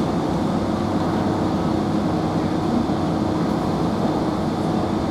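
Cabin running noise inside a Class 165 diesel multiple unit: a steady engine hum with a constant tone over an even rumble of the train on the move.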